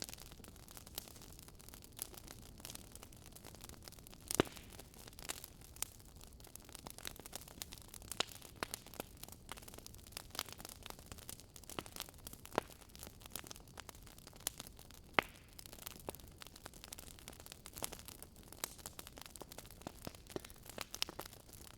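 Wood fire crackling in a fireplace: irregular sharp pops and snaps over a soft steady hiss, with two louder pops about four and a half seconds and fifteen seconds in.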